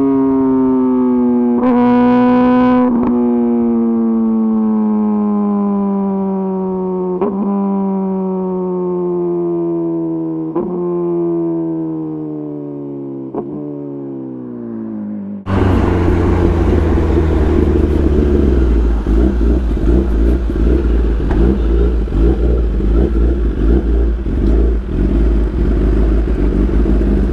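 A Kawasaki ZX-10RR's inline-four engine through an Arrow Pro-Race exhaust, its note falling slowly and steadily for about fifteen seconds, with a few brief clicks. It then switches suddenly to a loud, rough, noisy sound over a steady low hum.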